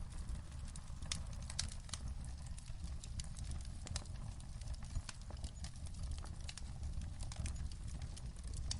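Wood fire burning in a fireplace, crackling: irregular sharp pops and snaps of varying loudness over a steady low rumble.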